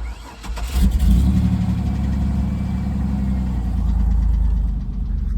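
A 1998 Chevrolet Camaro's 3.8-litre V6 cranks on the starter, catches about a second in and flares up, then settles into a steady idle. The owner calls it "sounds really nice".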